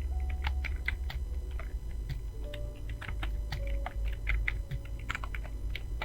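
Computer keyboard being typed on quickly, keys clicking irregularly several times a second, over a steady low hum.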